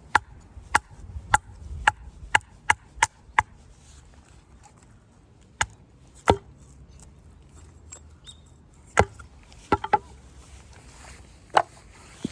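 Firewood being chopped: a quick run of about eight sharp wooden strikes, roughly two a second, then a few more spaced out.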